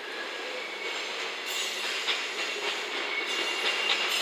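JNR 443-series electric inspection test car approaching slowly on curved track, the rolling sound growing louder. Its wheels clack over the rails from about a second and a half in, with a thin, high wheel squeal.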